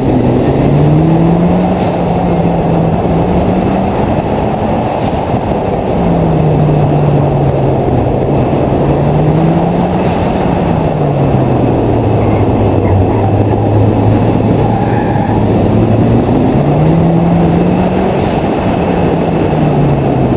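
1986 Merkur XR4Ti's turbocharged 2.3-litre four-cylinder engine driven hard. Its pitch rises and falls over and over as the throttle is opened and lifted, and it pulls on boost, all over a heavy rushing noise.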